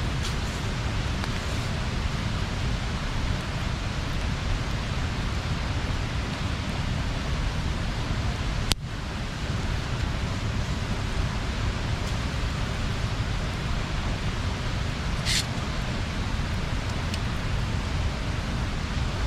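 Steady rushing of river water pouring over a small weir. There is a single sharp click about nine seconds in and a brief high-pitched sound near the end.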